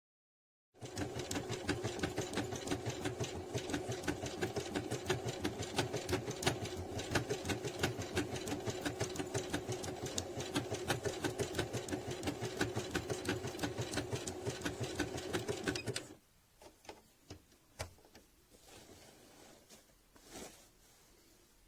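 Bernette sewing machine stitching at a fast, even pace. It starts about a second in and stops suddenly about 16 seconds in, followed by a few light clicks.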